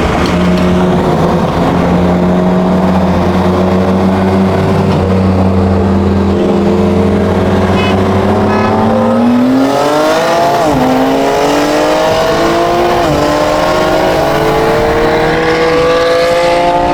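BMW M twin-turbo inline-six cruising at a steady rpm, then at about nine seconds going to full throttle in a roll race: the engine note climbs and drops sharply three times as it upshifts through the gears.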